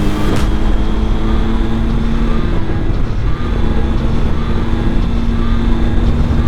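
Motorcycle engine running at a steady speed while riding, with low wind and road rumble.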